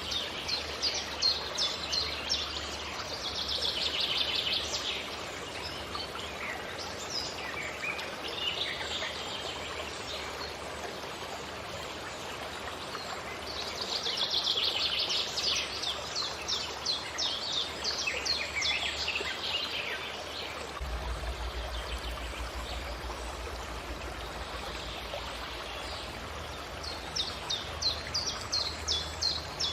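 Songbirds singing in several bursts of quick, repeated, high falling notes over a steady rushing hiss.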